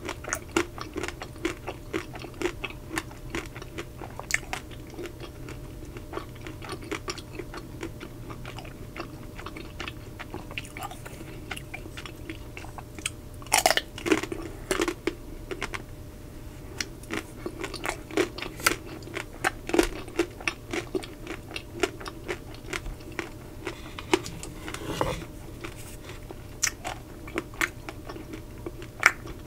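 Crunchy chewing and biting of the hard chocolate shell of Magnum double sea salt caramel ice cream, a steady run of small crackles with a louder crunch about halfway through.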